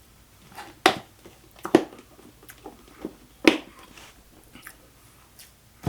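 A few sharp knocks and crunches from food and utensils as an egg salad is made, three of them loud, with fainter clicks between.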